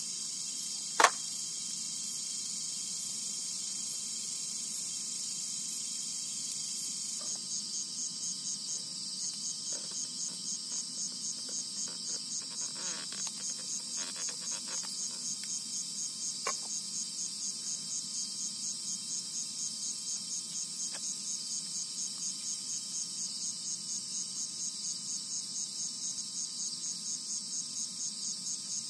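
Chorus of insects such as crickets, high-pitched and continuous, with one insect joining about seven seconds in with an even pulsing call of a few pulses a second. A single sharp click comes about a second in, and a few faint knocks come later.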